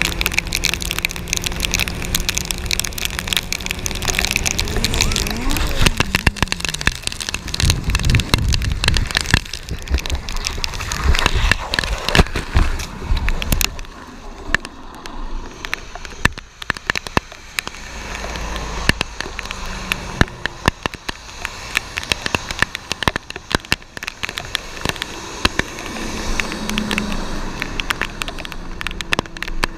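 A vehicle engine running steadily, its pitch falling about five seconds in, then a loud rumbling noisy stretch, followed by steady rain and wet-road noise with many crackling clicks.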